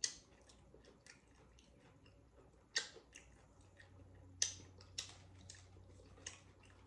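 Close-up chewing of crunchy tortilla-chip nachos: short, sharp crunches at irregular intervals, the loudest right at the start and about four and a half seconds in.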